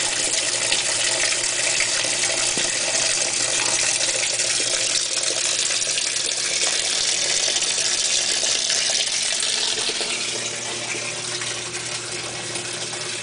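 GE Hotpoint top-load washing machine filling its tub with water for the rinse cycle: a steady rush of water pouring in, easing slightly near the end.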